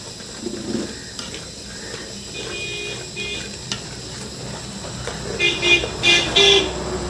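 A vehicle horn tooting: a short burst about two and a half seconds in, then several louder toots near the end, as a vehicle's engine hum builds. Faint stirring and sizzling from the cooking pot underneath.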